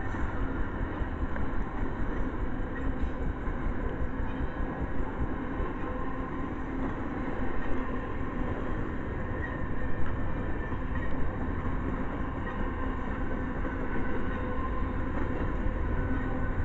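Double-stack intermodal container cars of a freight train rolling past: a steady heavy rumble of steel wheels on rail, with a few louder knocks around the middle.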